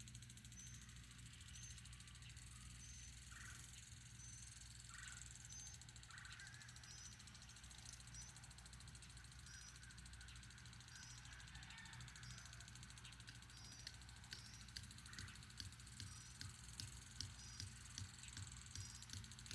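Faint outdoor ambience with a short high chirp repeating about once a second, from a bird or insect. Past the middle comes a run of soft ticking clicks, a few a second.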